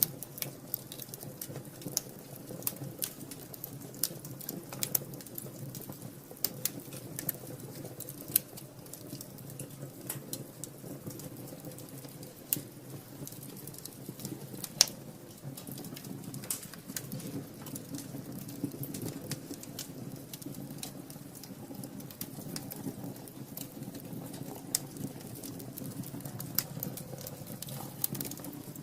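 Wood fire burning in a fireplace: irregular sharp crackles and pops over a low steady rumble of the flames, with a few louder pops, the loudest about fifteen seconds in.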